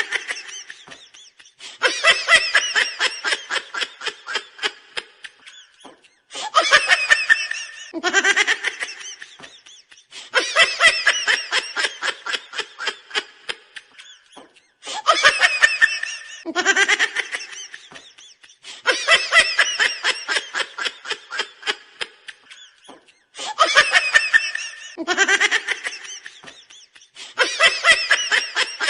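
A high-pitched, cartoonish laughing sound effect repeating over and over. Each bout opens with a rising squeal and runs into fast staccato cackles that trail off, with a new bout every two to four seconds.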